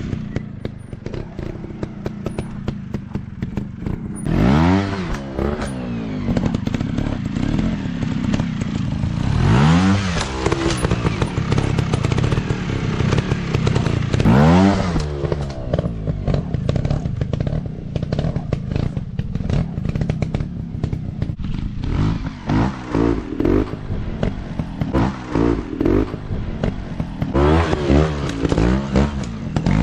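Dirt bike engines revving hard: a long rise in pitch about every five seconds, then a quicker run of short throttle blips near the end, with some clatter.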